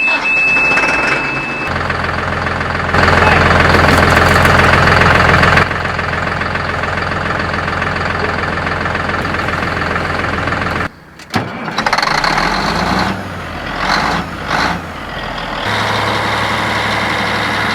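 Heavy diesel engine running, in several short stretches that change level abruptly, with a steady high-pitched tone during the first couple of seconds.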